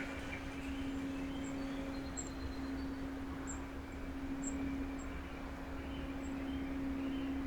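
Steady low hum over a low rumble. Over it come faint, high, short bird chips now and then, with a brief louder chirp right at the start.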